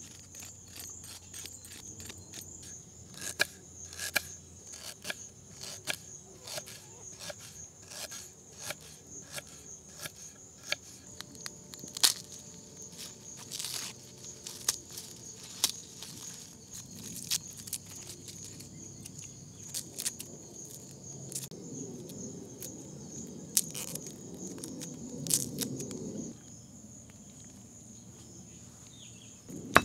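Dry crackles, scrapes and ticks of ginger being peeled with a small knife and papery garlic skins being pulled off by hand, over a steady high-pitched insect drone.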